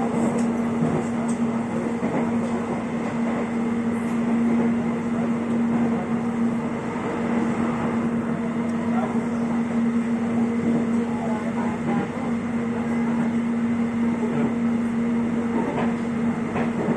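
Electric airport train running, heard from inside the carriage: a steady rumble of wheels and running noise with a constant hum.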